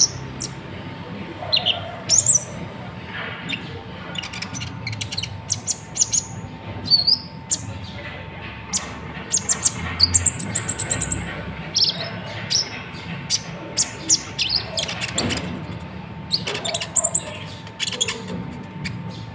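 Natuna konin (kolibri ninja), a sunbird, singing: a busy run of short high chirps, quick trills and sharp squeaky notes, with a faint steady hum underneath.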